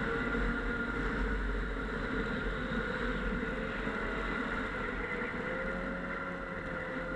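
Snowmobile engine running steadily under way, its pitch rising a little partway through, then holding.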